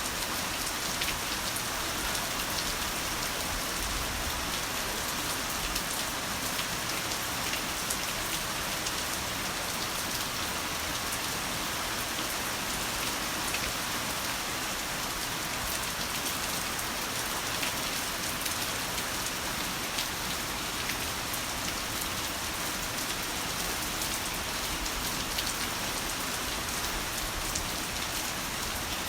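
Heavy rain falling steadily: a dense, even hiss of rainfall with scattered individual drop ticks, and no thunder.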